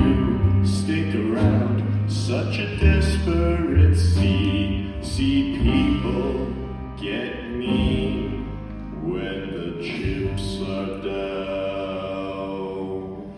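Live pit band (piano, drums, guitar, cello, violin, bass and trombone) playing the closing bars of a musical-theatre song, with deep bass notes and cymbal strikes. It ends on a sustained chord that drops away near the end.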